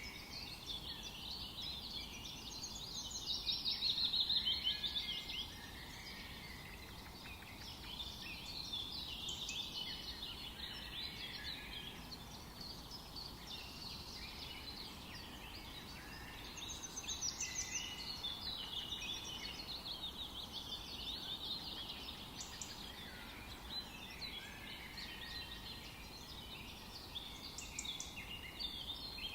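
Many songbirds singing and chirping at once in a dense, overlapping chorus over a faint background hiss, swelling louder a few seconds in and again a little past the middle.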